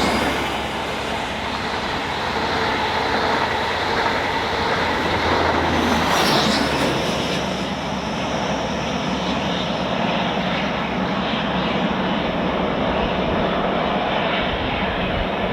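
Diesel train passing close by, its engine running steadily under power over a continuous rush of wheel and rail noise.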